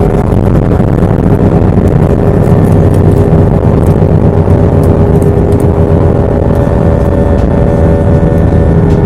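Jet airliner's engines at takeoff thrust heard from inside the cabin: a loud, steady rush with a steady droning hum that grows firmer about halfway through.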